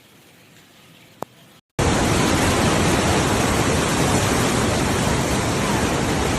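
A single click over a faint hiss, then, about two seconds in, a loud steady rushing noise with no pitch that starts and stops abruptly.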